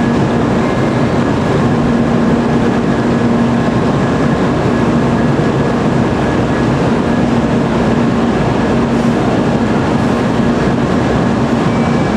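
JR Central N700A Shinkansen train standing at the platform, its onboard equipment giving off a loud, steady hum with a constant low tone.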